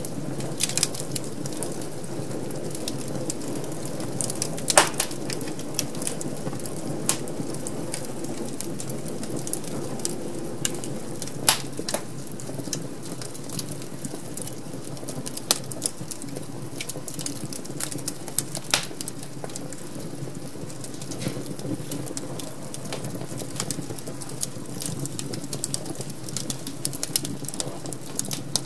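Wood fire crackling in a fireplace: irregular sharp pops and snaps over a steady low rush.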